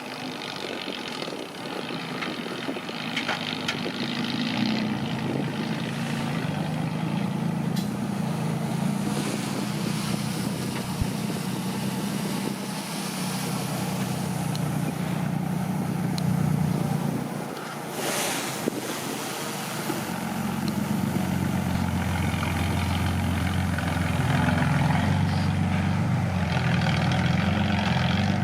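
Bulldozer's diesel engine running under working load, its pitch shifting as it works and growing louder about two-thirds of the way through.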